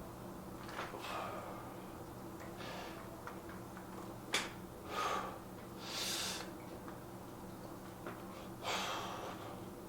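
A man breathing hard from the effort of lifting weights, with about five loud breaths a second or two apart. A single sharp click comes a little before the middle.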